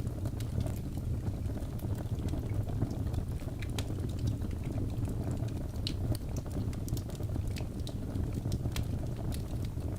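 Wood logs burning in a fireplace: a steady low rumble of flame with frequent sharp crackles and pops scattered irregularly throughout.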